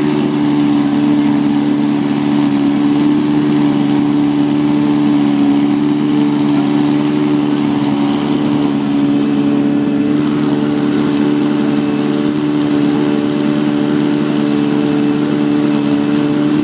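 A classic car engine idling steadily, holding an even note.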